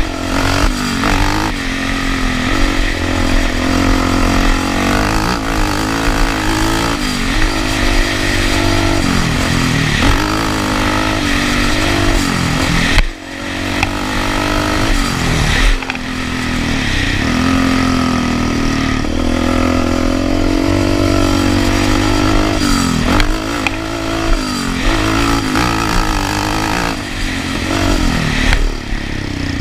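Off-road vehicle engine under way, its pitch rising and falling again and again as the throttle is opened and eased over rough trail. The sound breaks off sharply about 13 seconds in and again near 16 seconds, then the same engine sound carries on.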